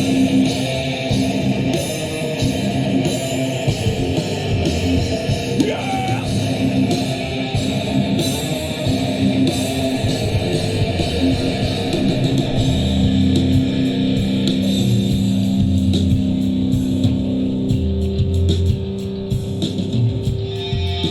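Live rock band playing an instrumental passage on guitar, bass and drums. Near the end the drums drop out, leaving held guitar notes.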